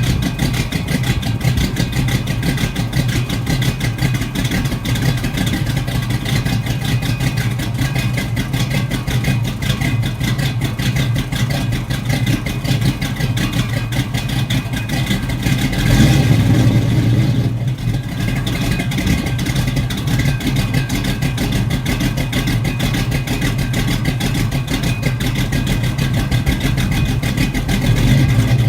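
1968 Pontiac Firebird's 400 V8, breathing through Flowmaster 40 Series Delta Flow mufflers, idling steadily after a cold start. It runs briefly louder a little past halfway, then settles back.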